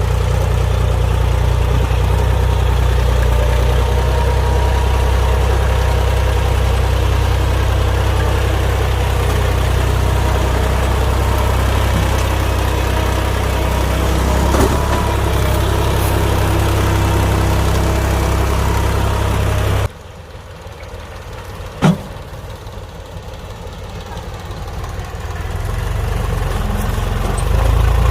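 HMT 1022 tractor's diesel engine running steadily with a deep low hum. About twenty seconds in the sound drops suddenly much quieter, a single sharp click follows about two seconds later, and the engine sound builds back up near the end.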